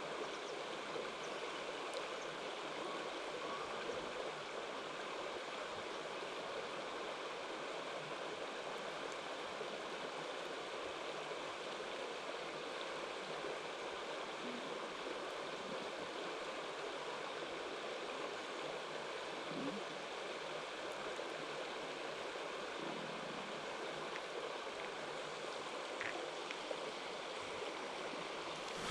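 Mountain stream water running over rocks, a steady rush of flowing water.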